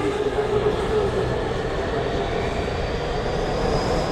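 Electric commuter train running through the station: a steady rail rumble with tones that fade after about a second and a faint high whine rising slowly near the end.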